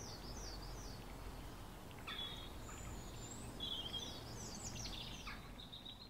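Small birds chirping and calling over a low steady outdoor background: a quick run of repeated sweeping chirps at the start, more calls later on, and the sound fading near the end.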